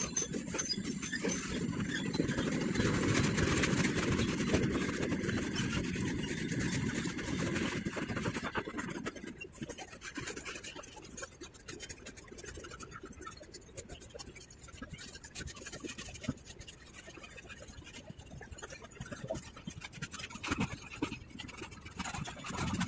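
Goods train of covered wagons rolling past: a rumble with irregular wheel clatter, loudest a few seconds in, then easing off and building again near the end.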